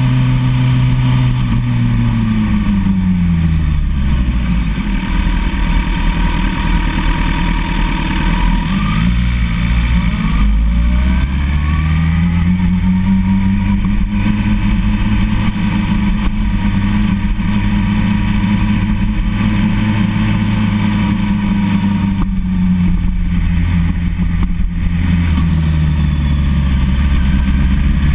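Sport motorcycle engine under way with wind rushing past. The engine note drops off about three seconds in, climbs back up around ten to thirteen seconds, holds steady, then dips again briefly near the end before rising.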